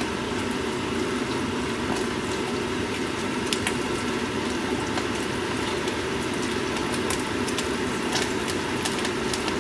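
Sausages sizzling steadily in oil in a frying pan on the stove, with a few sharp crackles and pops as the fat spits. A steady lower hum runs underneath.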